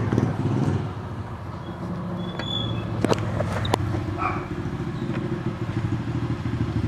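Honda CG 150 Titan's single-cylinder four-stroke engine easing off from a louder run to a steady idle about a second in, with a few light clicks.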